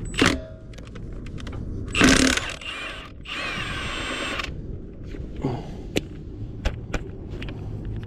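Impact wrench on a wheel's lug nuts: a short burst just after the start, a louder one about two seconds in, then a steady run of hammering lasting over a second. Sharp clicks and knocks of the socket and nuts follow.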